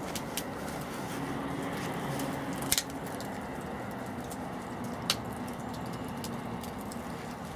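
Wood fire crackling over a steady hiss, with scattered sharp pops; the loudest is a double snap about three seconds in, with another about five seconds in.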